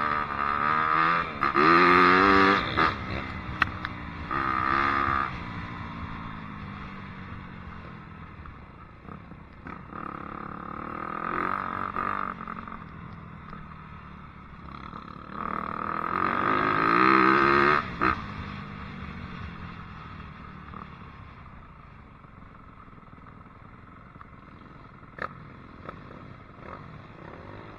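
Dirt bike engine revving in bursts as it is ridden, its pitch climbing and dropping with the throttle. The loudest pulls come about two seconds in and again after about sixteen seconds, then it settles to a lower, steadier running sound.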